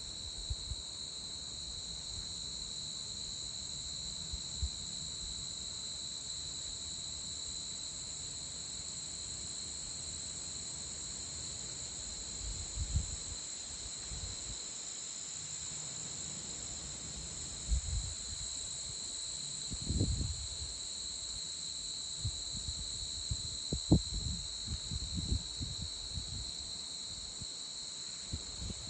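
Steady chorus of crickets and other insects: a continuous high trill at two pitches that never breaks. A few soft low thumps come through in the second half, the loudest about 24 seconds in.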